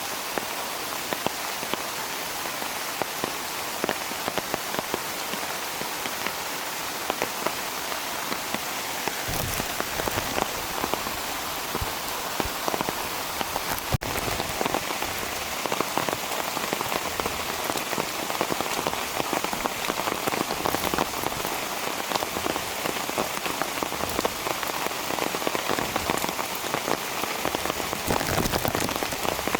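Steady rain, with many separate drops striking close by. About nine seconds in, the sound gains a deeper, fuller low end.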